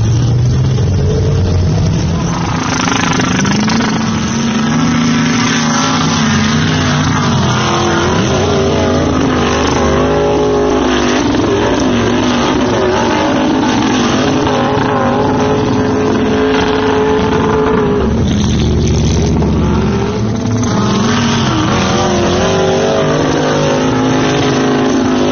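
Lifted GMC pickup truck's engine running loudly, its pitch rising and falling as it is revved.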